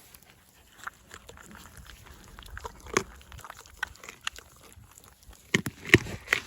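A dog's short snorts and snuffles among scattered small clicks, with a few louder ones near the end.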